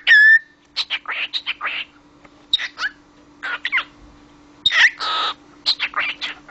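Cockatiel chattering in quick clusters of short, high chirps, opening with a rising whistle and giving one harsh squawk about five seconds in.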